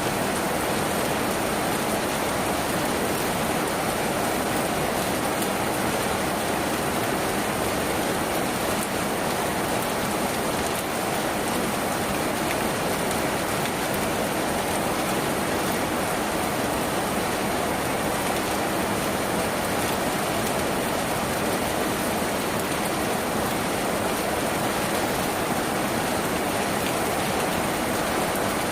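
Steady rain falling on a tin roof, an even hiss of many drops with no let-up.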